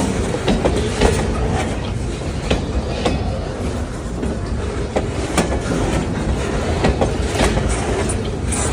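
Escanaba & Lake Superior freight train rolling past: a steady rumble with irregular clicks of wheels over rail joints.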